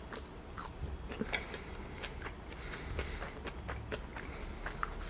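A person chewing a mouthful of food close to the microphone: irregular wet mouth clicks and smacks, several a second.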